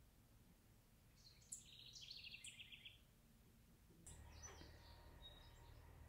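Faint songbird singing outdoors: a short phrase of fast high notes about a second in, then a few scattered chirps later on. A low steady hum starts at about four seconds.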